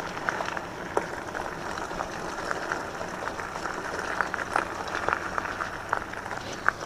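Riding noise from an electric bike on a trail: a steady rush with frequent irregular light clicks and rattles.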